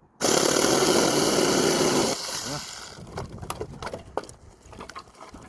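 Small electric chainsaw cutting a branch: it starts suddenly, runs for about two seconds, then winds down, followed by a few light knocks of wood being handled.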